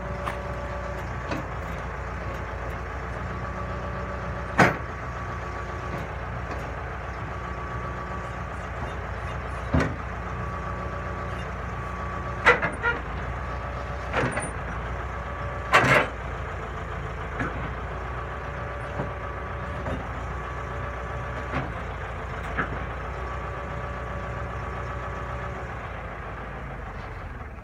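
Bulldozer's diesel engine running steadily, with several sharp metallic clanks, the loudest about four and a half, twelve and a half and sixteen seconds in.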